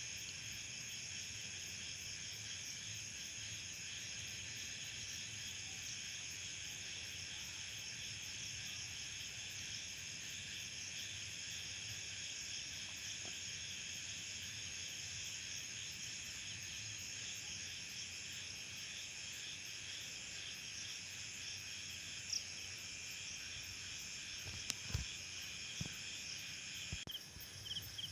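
Steady chorus of crickets and other insects trilling together. Near the end, a rhythmic pulsing chirp joins in.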